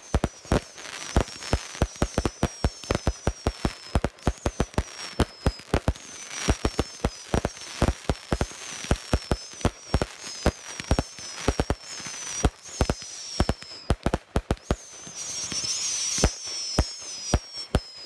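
Fireworks going off: rapid sharp bangs several times a second, with short high whistles that fall in pitch about once a second. About three quarters of the way through, several whistles overlap with a louder crackling hiss.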